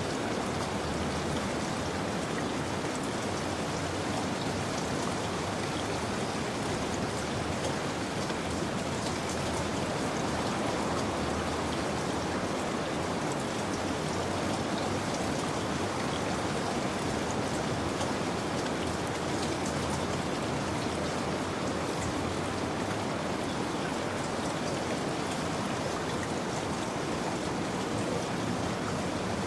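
Steady rain falling, an even hiss of drops with faint scattered patters, without change.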